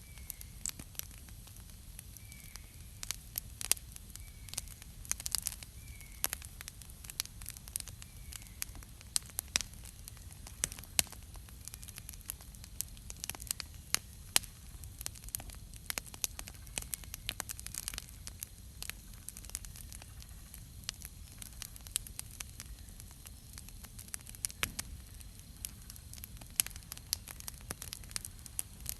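Wood campfire crackling, with frequent irregular sharp pops and snaps from the burning wood. A bird chirps faintly a few times in the first several seconds.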